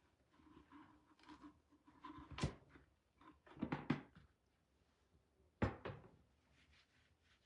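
Several knocks and light thuds of small objects being handled and set down: one sharp knock about two and a half seconds in, a quick cluster around four seconds, and another near six seconds.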